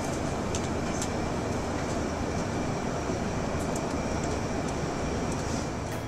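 Steady roar of airflow and engines inside an Airbus A340-300 cabin during descent, with a few faint light clicks.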